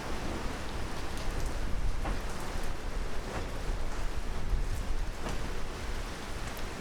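Heavy rain falling, a steady hiss with scattered sharp drips and taps.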